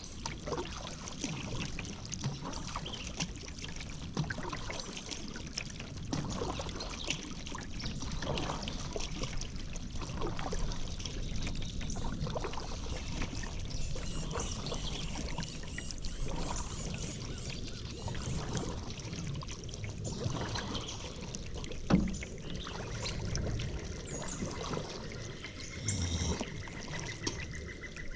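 Paddle strokes in river water: the blade dipping and water trickling and splashing off it in an uneven rhythm, with one sharp knock about three-quarters of the way through.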